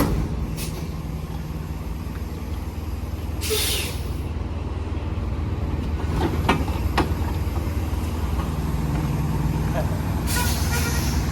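Tractor-trailer engine running steadily at low speed, with two short air-brake hisses, about three and a half seconds in and again near the end, and a couple of light knocks in between.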